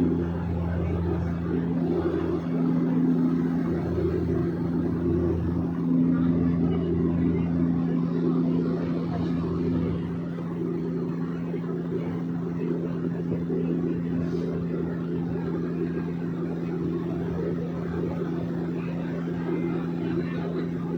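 Steady drone of a small private airplane's engine and propeller, heard from inside the cabin in flight, holding one even pitch with a low rumble that swells and eases a little in the first half.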